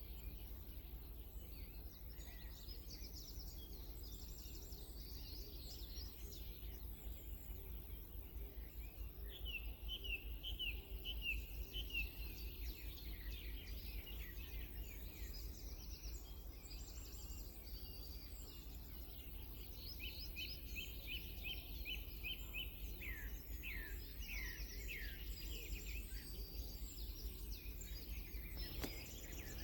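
Songbirds singing: phrases of quick repeated high notes, the clearest about ten seconds in and again about twenty seconds in, with other scattered calls, over a steady low background rumble.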